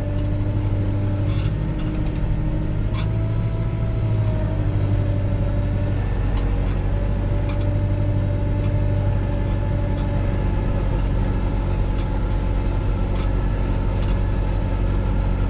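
Kubota L3940 compact tractor's diesel engine running steadily as the tractor drives, with a faint whine above the hum that wavers slightly in pitch.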